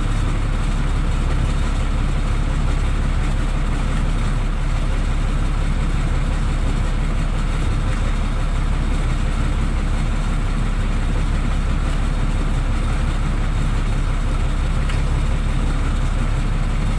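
Boat engine running steadily at a constant, low-pitched pace.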